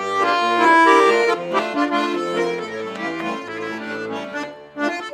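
Russian garmon (button accordion) playing an instrumental passage, a melody in held chords over bass notes, between sung verses.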